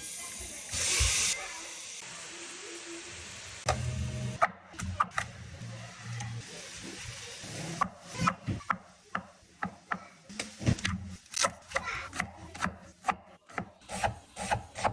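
Kitchen knife cutting on a wooden cutting board, scraping and then knocking down in quick strokes, two or three a second, through the second half. A steady hiss runs through the first few seconds.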